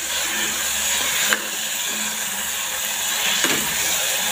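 Onion, tomato and curry leaves sizzling in hot oil in a pressure cooker as they are stirred with a ladle, which clicks against the pan twice.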